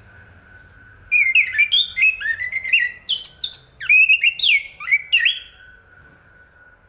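Chestnut-capped thrush singing one rapid phrase of varied, sliding whistled notes, lasting about four seconds and starting about a second in.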